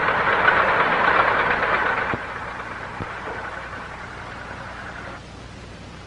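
Vintage open car's engine running as it pulls away. It drops in level about two seconds in and stops about five seconds in, leaving only the hiss of an old film soundtrack.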